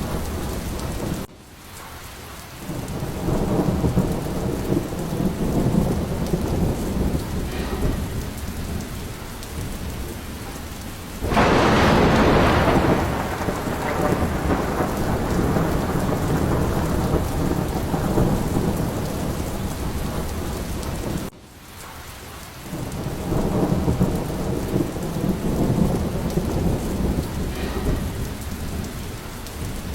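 Steady rain with rolling thunder rumbling through. A loud thunderclap breaks about 11 seconds in and fades slowly, and the level drops abruptly twice, near the start and about 21 seconds in.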